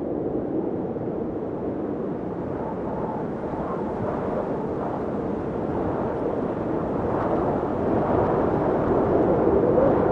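Blizzard wind blowing in a steady low howl that slowly builds in strength over the last few seconds.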